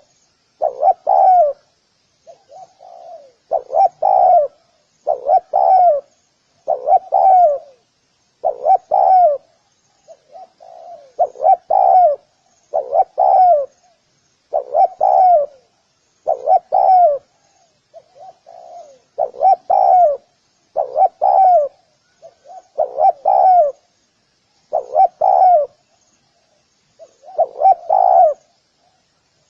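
Spotted dove cooing over and over: short phrases of a few low, throaty coo notes, one every second or two. Faint, rapid high chirping of a small bird runs underneath.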